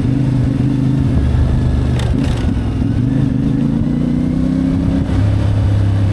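CFMoto 450MT's parallel-twin engine running while the motorcycle is ridden, its note climbing gently and then dropping back about five seconds in, with a brief click about two seconds in.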